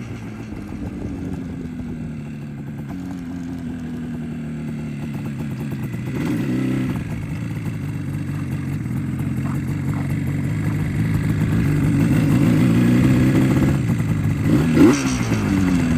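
1976 Yamaha RD400's two-stroke twin engine under way, its pitch falling and rising as the bike accelerates and is shifted without the clutch. It grows louder in the second half, with a sharp rise in pitch and a loud spike near the end.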